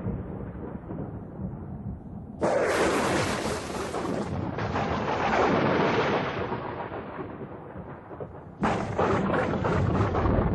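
Thunder: a sudden clap about two and a half seconds in that rolls on as a long, slowly fading rumble, then a second sharp crack about eight and a half seconds in that rumbles on.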